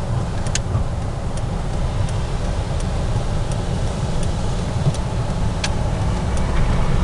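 Steady low engine and road rumble inside a car's cabin, with a turn signal ticking evenly, a little more than once a second, as the car gets ready to turn around.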